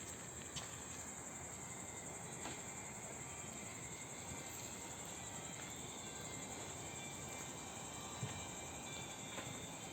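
Insects chirring steadily in a continuous high-pitched band, with a few faint clicks scattered through it.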